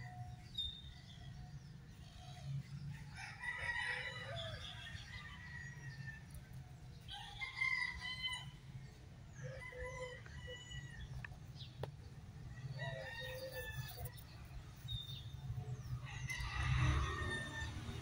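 Birds calling outdoors: about five pitched calls, each a second or so long and a few seconds apart, over a low steady rumble.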